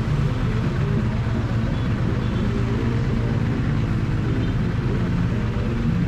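Triumph Bonneville T100's parallel-twin engine running through its exhaust, picked up close to the exhaust pipe, with its pitch wavering slightly.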